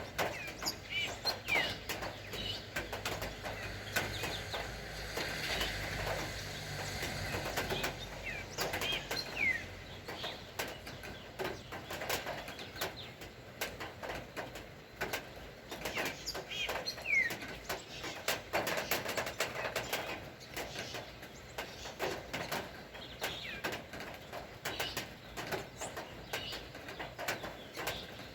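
Birds chirping, short calls every few seconds, over a constant scatter of sharp taps from dripping rain.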